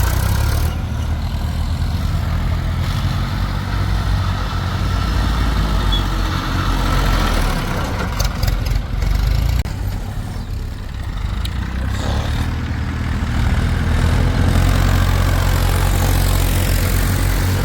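Heavy diesel engine running steadily at low revs, with a slight drop in loudness about two-thirds of the way through.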